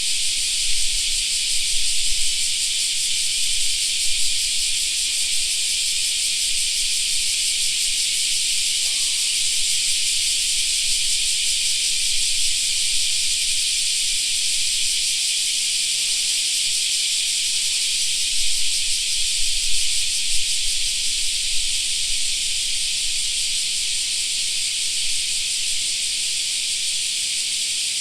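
A chorus of cicadas singing: a dense, steady, shrill buzz.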